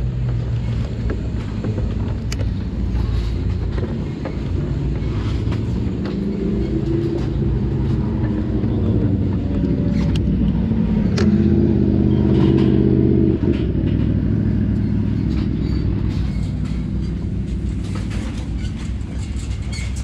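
Suzuki GSX-R 1000's inline-four engine running under way. Its pitch climbs steadily for several seconds, then drops sharply about two-thirds of the way through.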